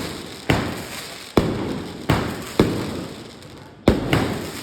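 Fireworks exploding: six sharp bangs about half a second to a second apart, two of them close together near the end, each followed by an echo that dies away.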